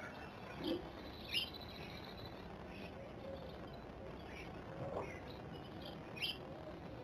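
Blue tits giving scattered short, high chirps, the loudest about a second and a half in and again near the end, with a couple of dull knocks.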